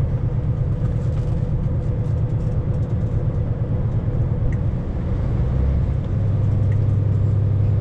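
Vehicle engine and road rumble while driving, a dense low noise. About six seconds in the engine note settles into a steadier, slightly louder drone.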